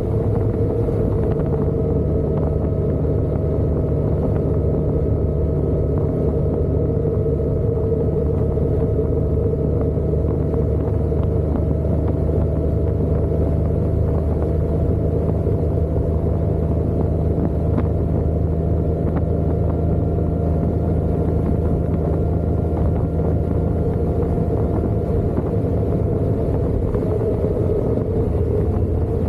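Motorcycle running at a steady cruise with road and wind noise, its engine drone holding almost level and creeping slightly higher in pitch.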